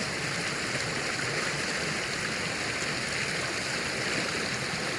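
Steady rush of a fast-flowing stream, water running over stones, newly formed by heavy rain after the ground collapsed.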